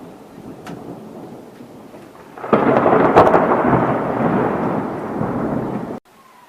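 Thunder rumbling, then a sudden loud thunderclap about two and a half seconds in that rolls on for a few seconds and cuts off abruptly near the end.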